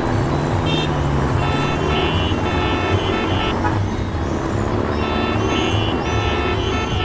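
A motor vehicle engine running with a steady rumble, joined by horn-like toots and background music in two stretches, the first about a second and a half in and the second near the end.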